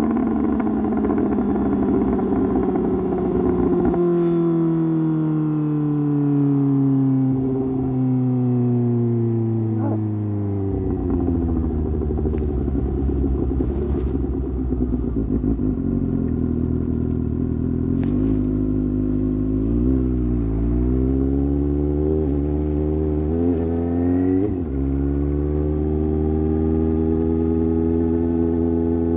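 Suzuki GSX-S750's inline-four with an aftermarket sport exhaust, its pitch falling steadily for about ten seconds as the bike slows. It then runs low and steady, with a few short blips of the throttle a little past halfway, and settles into a steady note near the end.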